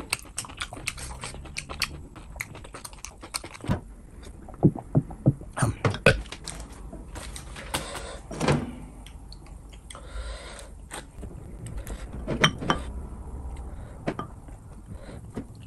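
Close-miked eating sounds: wet mouth clicks and crunching as fried puri and samosa are chewed, then a puri is torn by hand and a spoon scoops curry from a glass bowl onto it.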